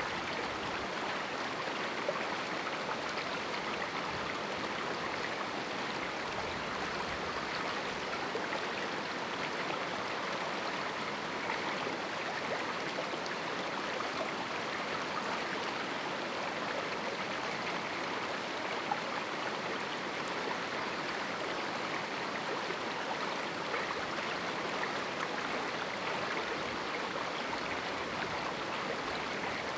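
Mountain stream running steadily over rocks in a small canyon, an even rushing with fine splashing.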